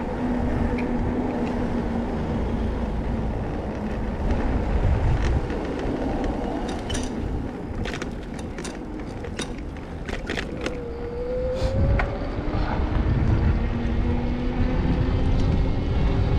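Wind and rolling noise while cycling along a city street. A vehicle engine hums near the start and again in the second half, with a run of sharp clicks around the middle.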